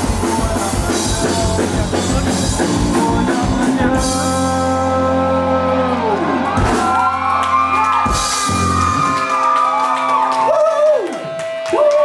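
A live rock band playing the closing bars of a song: the drum beat stops about four seconds in and a final chord rings out. Audience whoops and shouts follow near the end.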